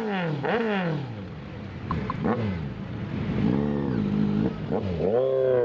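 Motorcycle engine revved in quick throttle blips, the pitch jumping up and falling back about twice a second, then slower rises and falls in revs.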